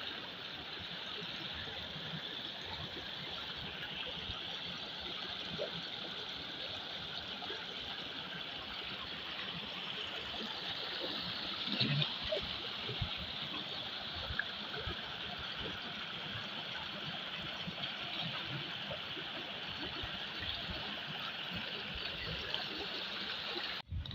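Heavy rain falling steadily with running water, an even hiss scattered with small drip ticks, and a brief louder patch about halfway through.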